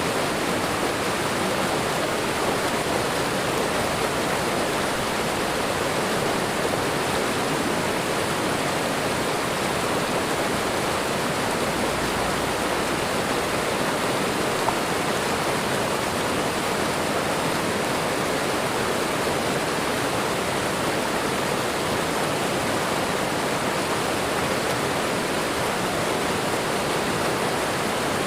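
Waterfall and running water rushing in a steady, even stream.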